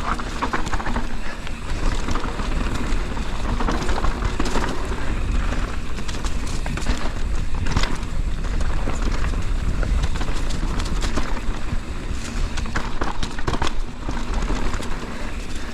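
2023 Intense Primer S mountain bike descending a dirt trail: tyres rolling over dirt and rocks with the frame and chain rattling and knocking over rough ground, under steady wind rush on the action-camera microphone.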